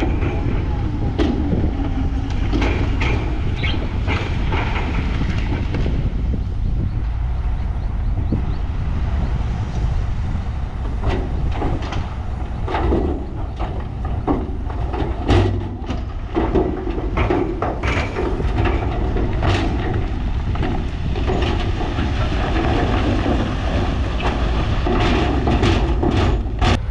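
Heavy earthmoving machinery running with a steady low diesel rumble, broken by many irregular clanks and knocks of metal tracks and rock.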